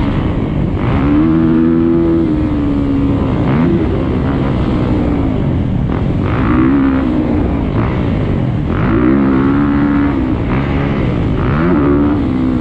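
Motocross bike engine under hard riding, revving up and dropping off again and again as the throttle is opened and chopped through the corners and jumps of a lap.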